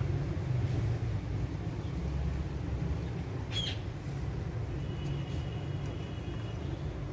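A steady low rumble runs throughout. About three and a half seconds in, an Alexandrine parrot gives one short, high call. Near the end a faint thin whistle is held for under two seconds.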